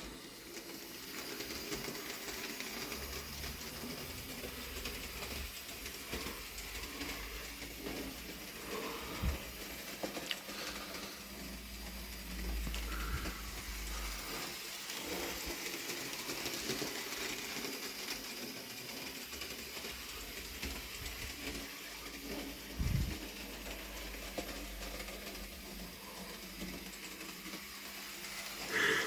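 Bachmann Rheneas model locomotive running along the track, its small electric motor whirring steadily, with a few brief low thumps.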